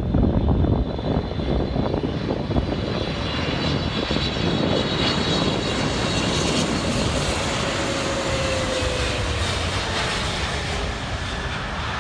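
Jet airliner passing close on landing approach: a loud, steady engine rush with a low rumble, and a whine that falls in pitch about two-thirds of the way through.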